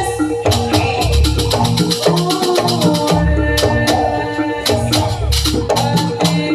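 Live jaranan music from a Javanese percussion ensemble: interlocking pitched metal notes over a deep beat that comes about every two seconds, with rapid clattering strokes of cymbals or rattles throughout.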